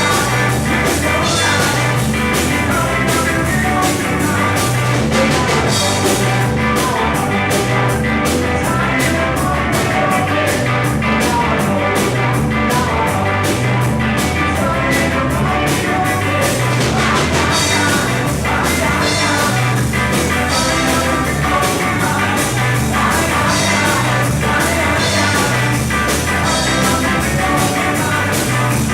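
Rock band playing: electric guitars, bass guitar and drum kit keeping a steady beat.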